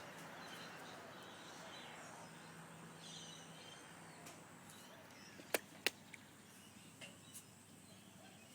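Faint outdoor background with soft, scattered bird chirps, broken by two sharp clicks in quick succession about five and a half seconds in.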